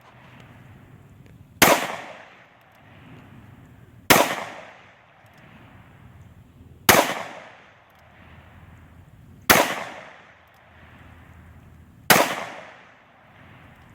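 A gun fired five times in a slow, even series, a shot about every two and a half seconds, each loud crack trailing off in a rolling echo.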